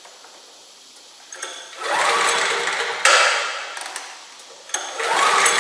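Portable generator's recoil starter pulled several times, each pull turning the engine over with a rough mechanical rattle, but the engine does not catch and run.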